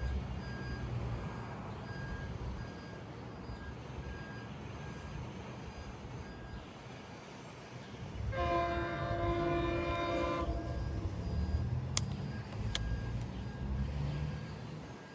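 Train horn sounding one blast of several notes at once for about two seconds, over the low rumble of a train. Two sharp clicks follow shortly after.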